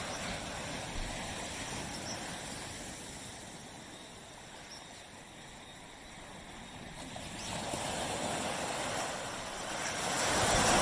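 Waves washing onto a beach: the wash of one wave dies away over the first few seconds, then the next wave builds and breaks near the end.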